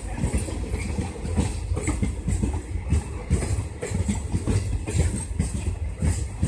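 Blue express passenger coaches rolling past, with a low rumble and a steady run of wheel clacks over the rail joints.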